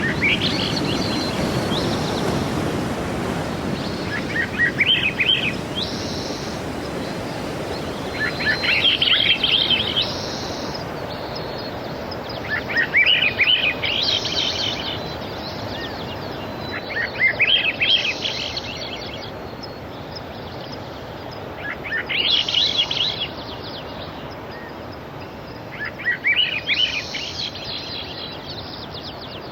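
Sea surf washing in as an even wash of noise, easing off over the stretch, while a songbird repeats the same short, quick streaky phrase about every four seconds, seven times in all.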